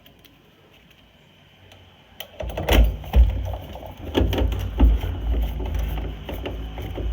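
Quiet at first, then about two and a half seconds in, a run of loud knocks, clunks and rattles from metal furnace parts being handled and fitted, over a low, steady rumble.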